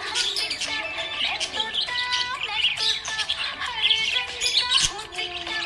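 Budgerigars chirping and warbling, a dense run of overlapping quick chirps, glides and short whistles.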